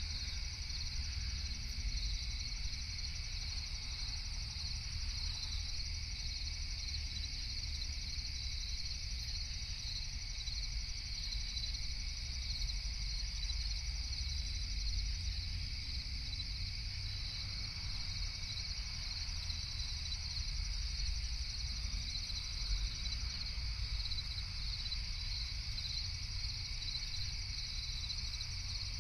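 A night insect chorus of crickets trilling steadily and without pause, over a steady low rumble.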